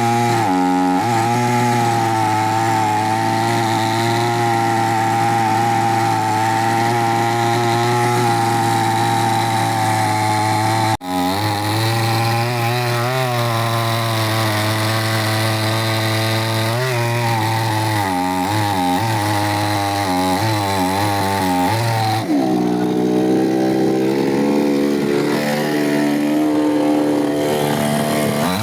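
Chainsaw engine running at high speed and cutting wood. Its pitch wavers and dips as the chain takes load, and it drops lower for the last few seconds. There is a brief sudden break about eleven seconds in.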